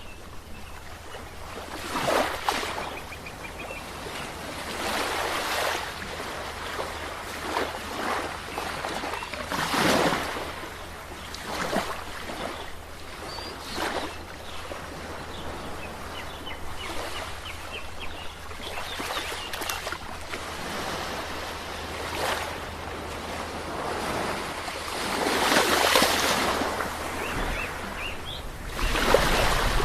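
Sea waves washing in and breaking, a steady surf noise that swells into a louder surge every few seconds. The biggest swells come about two thirds of the way through and again near the end.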